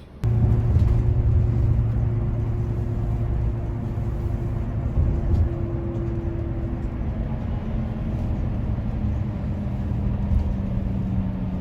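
A vehicle running: a steady low rumble with an engine hum that shifts slightly in pitch, starting suddenly just after the start.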